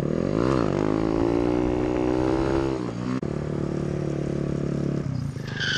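Motorcycle engine under way: the revs dip and climb again in the first half second, hold and rise gently for a couple of seconds, then drop to a steadier, lower note about three seconds in.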